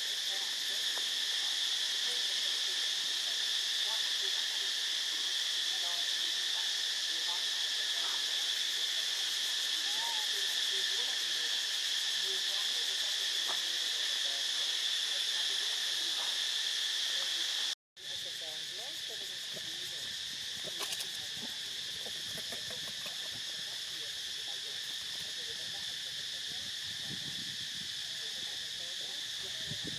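Steady high-pitched chorus of insects droning without a break. It drops out abruptly for a moment about two-thirds of the way through, then resumes slightly quieter.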